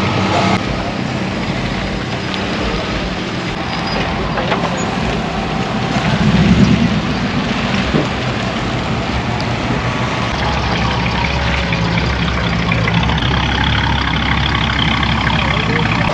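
Car engines running as cars roll in at a lowrider show, over steady outdoor noise. The sound swells briefly about six seconds in, and a deeper low engine rumble sets in from about ten seconds on.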